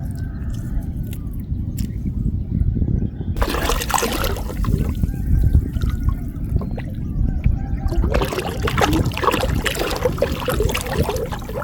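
Water trickling and splashing as a wet gill net is handled and drawn out of the water, with louder stretches of splashing about three and a half seconds in and again about eight seconds in, over a steady low rumble.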